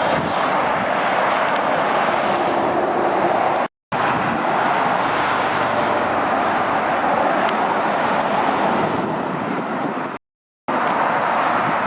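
Steady traffic noise from trucks and cars passing on a busy dual carriageway, mostly tyre roar and engine noise, dropping to silence twice for a split second.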